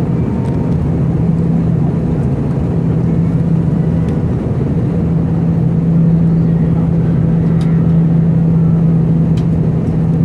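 Steady cabin drone of an Airbus A319 in flight, heard inside the passenger cabin: the engines and airflow make a constant low hum with a steady tone. A few faint clicks come in the second half.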